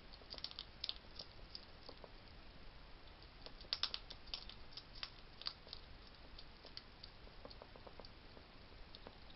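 Wild hedgehogs at a feeding station crunching dry food: faint, irregular crisp crunches and clicks, a cluster of louder ones near the middle.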